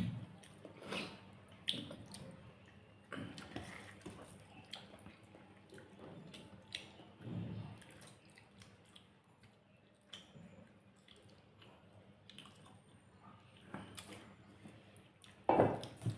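Close-up eating sounds: intermittent wet squishing and chewing of rice with beef curry, with scattered small clicks and a louder burst near the end.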